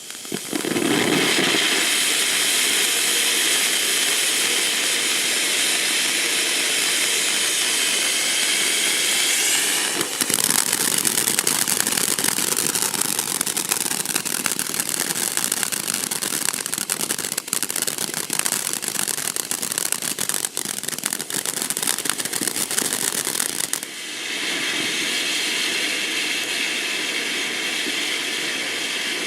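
Cube Fireworks 'Frosty' firework burning. It gives a steady hiss, turns to dense crackling about ten seconds in, and goes back to a steady hiss for the last few seconds.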